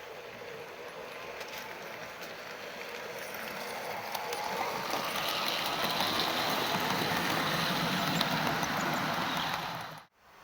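HO-scale model steam locomotive running on the track, its wheels and motor growing louder over the first few seconds as it comes closer, then holding steady with a faint whine. The sound cuts off suddenly near the end.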